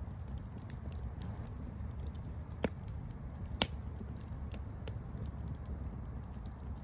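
Campfire burning with a steady low rumble and scattered light crackles, with two sharp pops about two and a half and three and a half seconds in.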